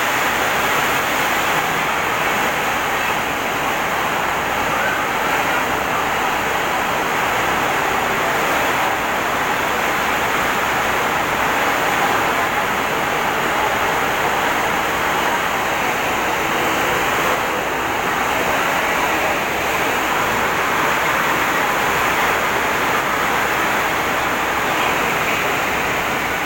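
Heavy rain and strong wind, a loud steady rushing that holds without a break.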